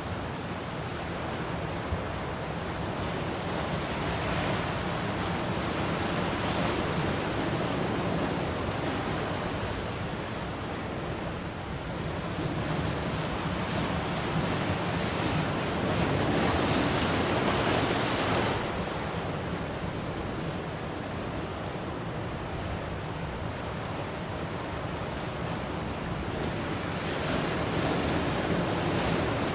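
Ocean waves breaking and washing ashore, a continuous surf hiss that swells and eases; the biggest surge comes about halfway through, with another building near the end.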